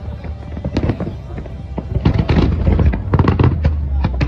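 Large fireworks display: rapid bangs and crackling over a low rumble of booms, growing denser and louder about halfway through.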